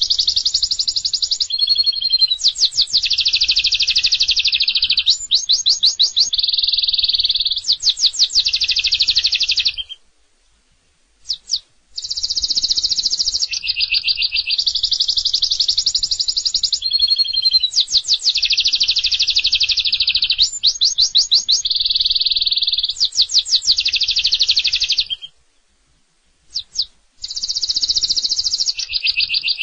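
Domestic canary singing long, loud phrases of rapid trills and rolling notes. The song breaks off for a short pause with a few single chirps about ten seconds in, and again about twenty-five seconds in.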